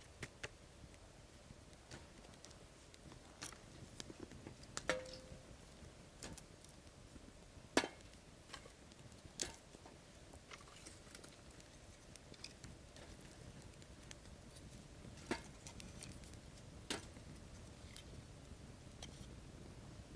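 Wood fire crackling, with scattered sharp pops coming irregularly, a dozen or so, over a faint low background hush.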